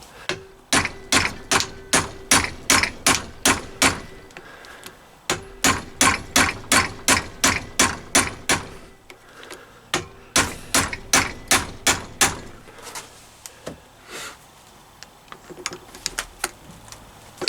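Hammer blows on steel, about three a second in three runs with short pauses between, working the staked sludge trap plug loose in a Triumph Bonneville T140 crankshaft. A few lighter, scattered taps follow near the end.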